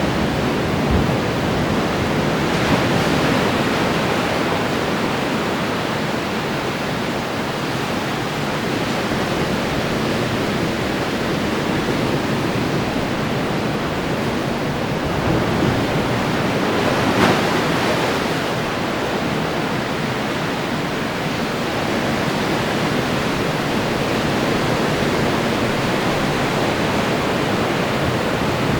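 Ocean surf: waves breaking and washing ashore in a continuous rushing wash, with a louder wave breaking a little past halfway.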